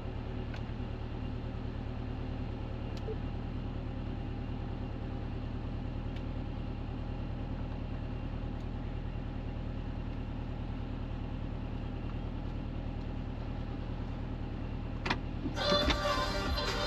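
2021 Subaru WRX STI's turbocharged flat-four engine idling steadily, heard from inside the cabin. Near the end a click, then a louder burst of sound from the dashboard audio system as it comes on.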